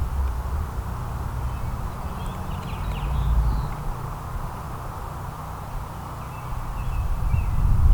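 Outdoor ambience of a steady low rumble with faint, short chirps of small songbirds, a few about two seconds in and more near the end.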